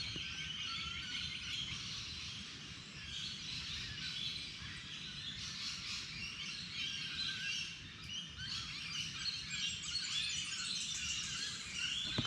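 Several birds chirping and twittering at once, a dense overlapping chorus of short high calls that runs on without a break, over a low background rumble.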